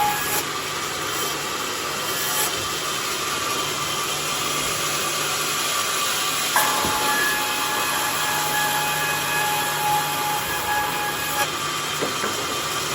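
Sawmill saw cutting lengthwise through a log of bayur wood, a steady rasping noise with a faint whine over it. There is a short knock about six and a half seconds in.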